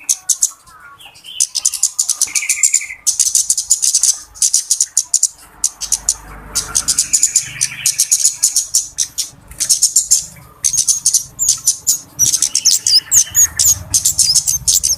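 Flowerpeckers (cabe-cabean) calling excitedly: bursts of very rapid, high-pitched ticking chips, broken by a few short, lower buzzy trills.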